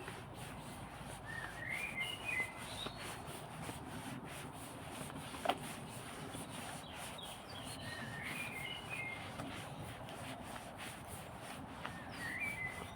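A small songbird singing a short phrase of quick chirping notes, repeated three times a few seconds apart, over a faint steady outdoor background. A single sharp click comes about halfway through.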